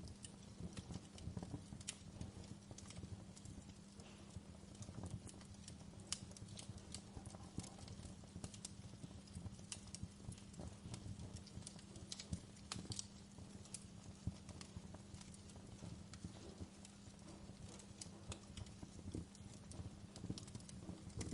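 Wood fire burning in a fireplace, crackling with irregular sharp pops and snaps over a steady low hum.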